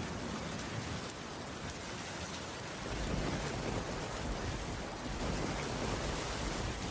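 Steady rainfall, an even hiss, with a low rumble of distant thunder building about three seconds in.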